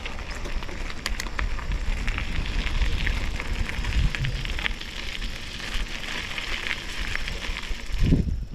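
Mountain bike tyres rolling over a gravel forest road on a descent: a steady crackle of small stones with a low rumble underneath.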